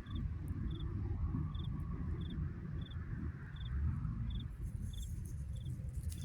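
A cricket chirping at a steady rhythm, about three short pulsed chirps every two seconds, over a constant low rumble.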